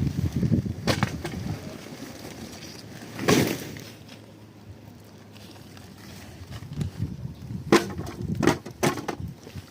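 Irregular knocks and cracks, a few sharp ones in quick succession near the end, over low rumbling wind noise on the microphone at the start.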